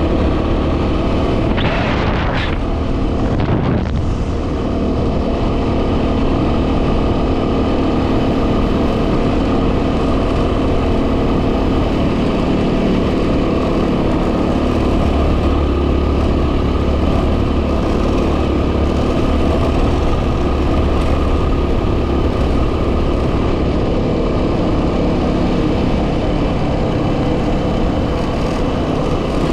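Yamaha WR250R's 250 cc single-cylinder engine running steadily while riding, with wind noise on the microphone. A short rush of noise comes about two seconds in.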